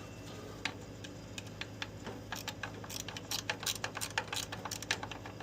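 Irregular light metallic clicks of an Allen key working on loose Allen-head screws in the boiler's casting, over a steady low hum.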